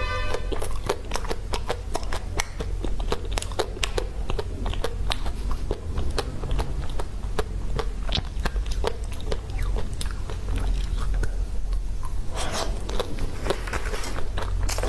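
Close-miked eating of a chocolate-coated ice cream bar: the hard chocolate shell cracks and crunches between the teeth, with chewing and many small sharp mouth clicks. The strokes come thickest near the end, over a steady low hum.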